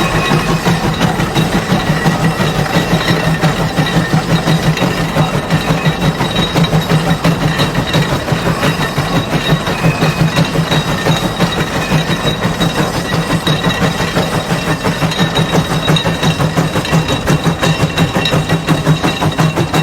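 Steam traction engine running steadily, its exhaust chuffing in an even, rapid beat of a few strokes a second.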